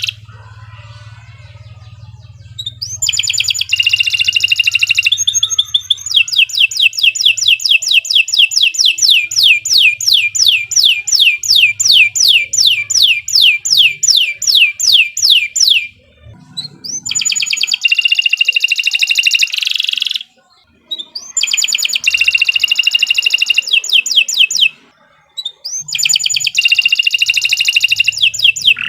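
Domestic canary singing loud, high-pitched song after a quiet start with a low hum. About a third of the way in comes a long rolling trill of repeated down-sweeping notes, about four a second, followed by three shorter song phrases with brief pauses between them.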